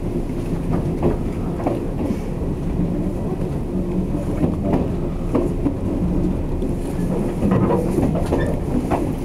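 Inside a 485-series electric train running at speed: a steady rumble of wheels on rail with a low hum, broken by irregular clacks over the rail joints.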